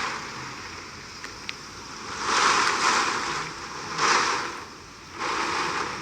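Hurricane wind and rain outdoors, a steady rushing that swells in gusts, with three strong surges in the second half.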